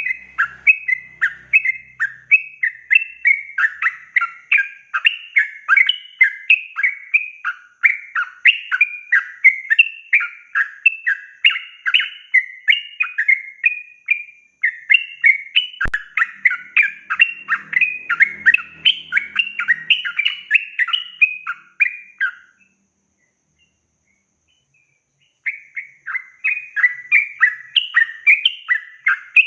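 Yellow-vented bulbul (trucukan) singing a long, rapid run of chirpy phrases. It stops about 22 seconds in and starts again about three seconds later. A single sharp click comes about two-thirds of the way through the run.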